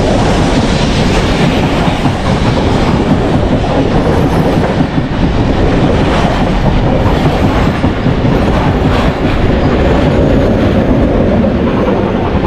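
Heritage train passing close by at speed: a loud, steady rumble of wheels on the rails that keeps up throughout.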